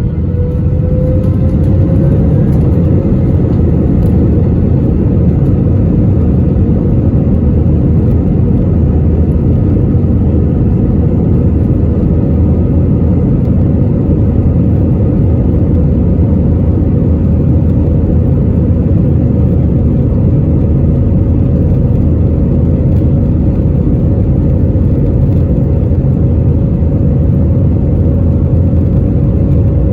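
Jet airliner engines running at take-off power, heard from inside the passenger cabin. It is a loud, steady rumble with a whine that climbs slightly in pitch over the first couple of seconds, then holds.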